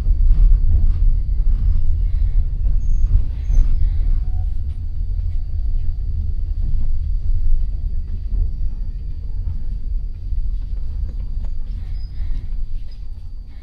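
Enoden 1000-series train with nose-suspended traction motors, heard from inside the car: a heavy low running rumble with scattered clicks from the wheels on the rails, growing gradually quieter toward the end.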